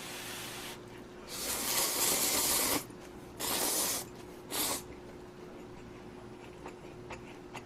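Someone slurping instant ramen noodles and broth in several noisy pulls: a long loud one about a second and a half in, then two shorter ones.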